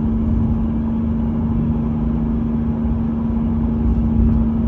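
1989 Chevy Celebrity's 2.8-litre V6 under way at steady speed, heard from inside the car: a steady engine drone over low road rumble. The exhaust is a little loud, enough that the owner thinks it needs a muffler shop to quiet it down.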